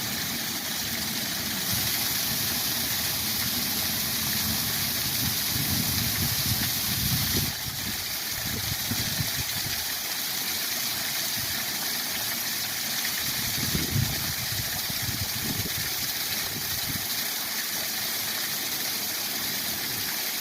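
Waterfall rushing steadily, an even roar of falling water with an uneven low rumble beneath, a little louder for a few seconds early on.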